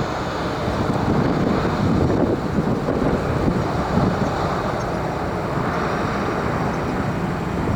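Steady rushing roar of a jet airliner's engines, mixed with wind buffeting the microphone.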